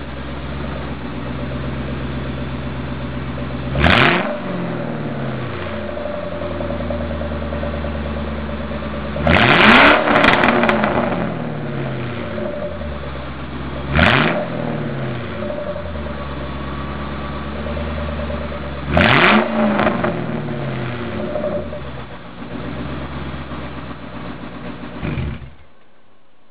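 1998 Lincoln Mark VIII's 4.6-litre V8 idling through a straight-pipe side exhaust, blipped four times a few seconds apart. The third rev is longer, and each falls back to idle. The engine sound cuts off near the end.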